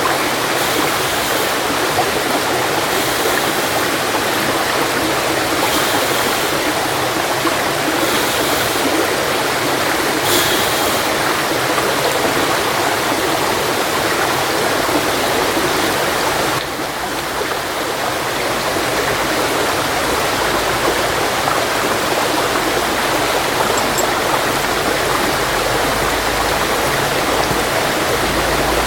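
Steady rushing of running water, like a stream. About five short, high scraping strikes come in the first ten seconds or so, a steel fire striker struck against flint.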